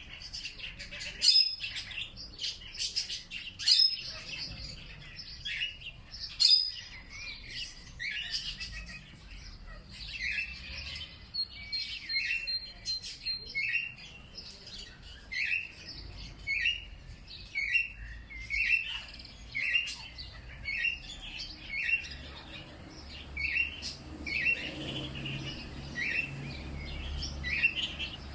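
Songbirds chirping. A few loud, sharp calls come in the first several seconds. After that one bird repeats a short chirp about once a second, with a faint low rumble underneath in the second half.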